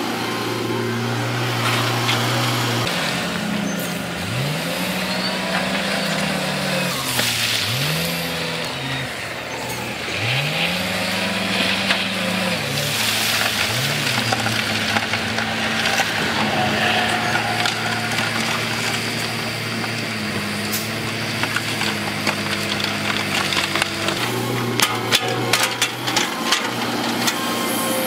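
Heavy-equipment diesel engine running, revving up and falling back in several quick swells, with a run of sharp knocks and clanks near the end.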